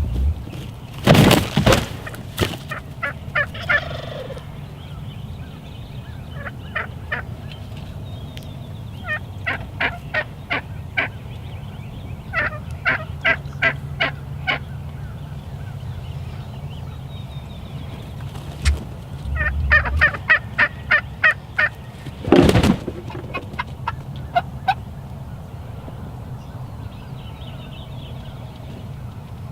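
Wild turkey gobbler gobbling twice, loudly, once near the start and again about two-thirds through. Between the gobbles come several runs of short turkey yelps, about four a second.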